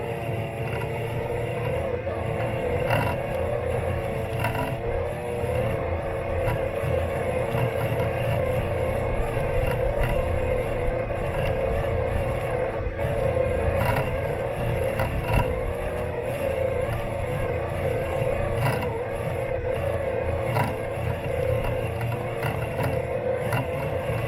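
Robot lawn mower's electric motors running with a steady whine, heard close up from a camera taped to the mower, over a rough rumble. Scattered short knocks as it rolls over the lawn.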